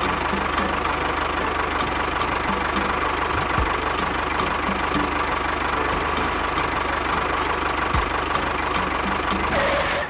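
Small motor of a miniature construction machine running steadily, then cutting off abruptly at the end.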